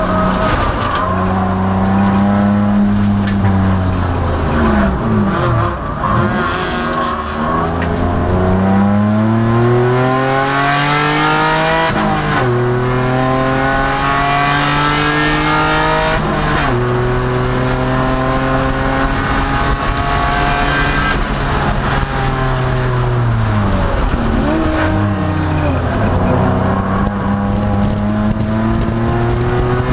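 2002 Nissan Maxima's V6 engine at racing speed on track. It revs up through the gears, with upshifts about 12 and 16 seconds in, and winds down with downshift blips under braking early on and again about three-quarters of the way through.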